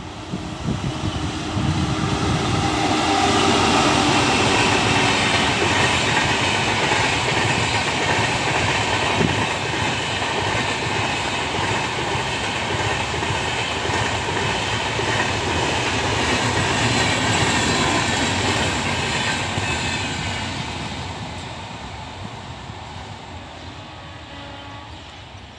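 Passenger train behind a WAP-5 electric locomotive running past at speed, the wheels and coaches making a loud, steady rolling noise. The noise builds over the first couple of seconds, holds, then fades away over the last few seconds as the train goes off into the distance.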